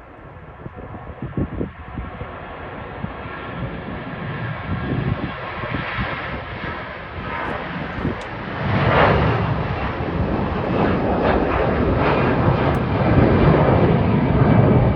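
Jet airliner engines, a high steady whine over a deep rumble, growing steadily louder as the aircraft comes closer.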